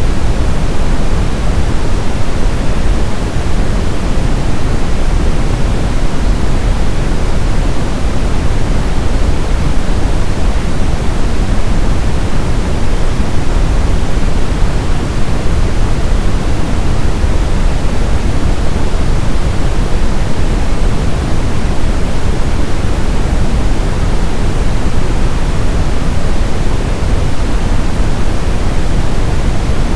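Synthetic brown noise: a steady, loud, deep hiss with its energy weighted toward the low end, unchanging throughout.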